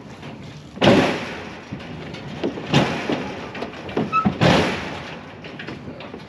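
A series of knocks and thuds: three loud ones about a second, three seconds and four and a half seconds in, with smaller knocks between them.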